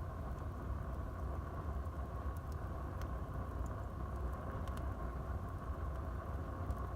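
Wood fire burning in a fireplace: a steady low rumble of flame with a few faint, sharp crackles of the burning wood scattered through.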